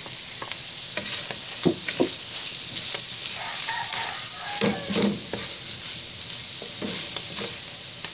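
Tuna, garlic and sliced mushrooms sizzling in olive oil in a nonstick wok, with a steady hiss. A wooden spatula stirs them, scraping and knocking against the pan several times.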